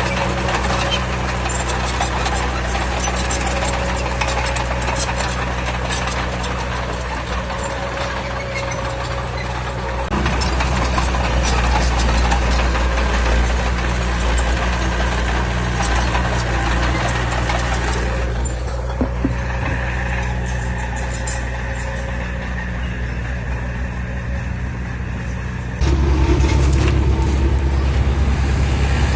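Heavy diesel engine of earthmoving machinery running steadily. The sound jumps abruptly louder and deeper about a third of the way in and again near the end.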